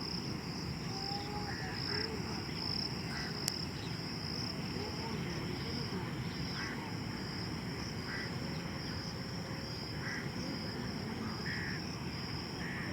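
Rushing water of a stream in flood, a steady low rush, under a continuous high-pitched insect trill. Short animal calls come every second or two, and there is one sharp click about three and a half seconds in.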